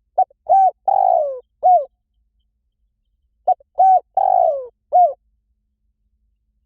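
Spotted dove cooing: two phrases of four low coos, each with a drawn-out falling third note, about three seconds apart.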